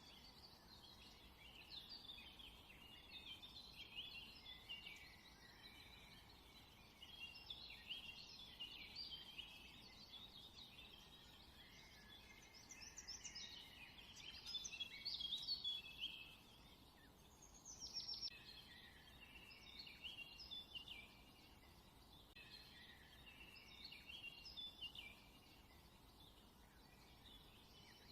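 Faint birdsong: many quick, high chirps and twitters, busiest a little past the middle, with one quick falling whistle soon after.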